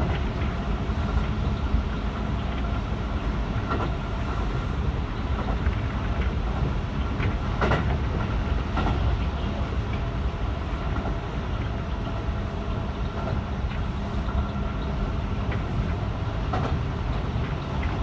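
Running sound of a Keihan 3000 series electric train, heard from inside the car: a steady rolling rumble and hum, broken by a few short sharp clicks.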